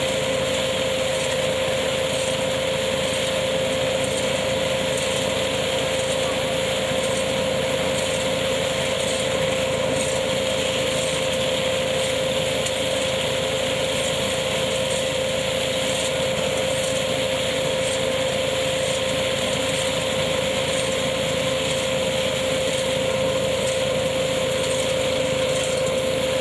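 Tractor-driven hazelnut picking machine running steadily with its tractor, a constant machine noise with a steady high hum throughout.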